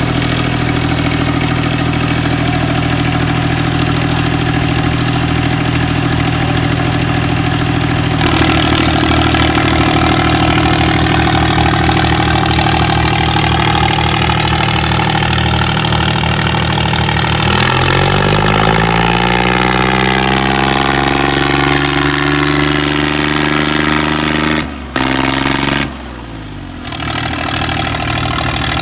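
Diesel engine of a modified New Holland 3630 tractor running steadily. About eight seconds in the revs step up, and past the middle they climb with a rising pitch. Near the end the revs drop away briefly, then pick up again.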